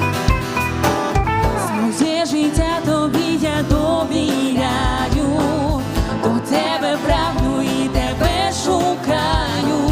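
Live band playing a Ukrainian worship song, with a steady kick drum under guitar and keyboard chords. A voice sings a wavering melody over the band from about two seconds in.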